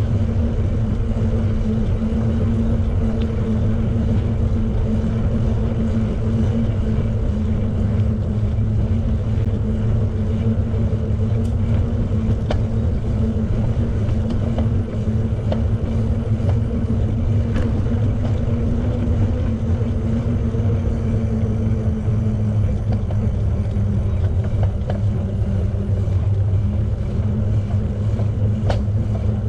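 Steady low rumble of a bicycle being ridden: tyre and road noise with wind on the microphone and a faint steady hum, with a few light ticks.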